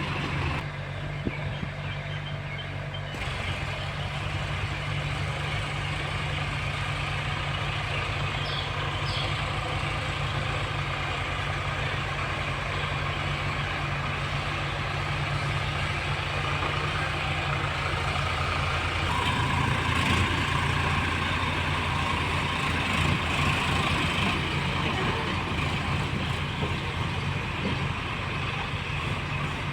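Diesel tractor engine running steadily, its note changing about two-thirds of the way through as the engine takes on more load or revs.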